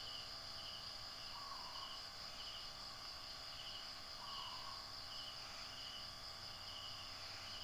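Faint insects chirping: a steady high trill with short chirps repeating about once a second.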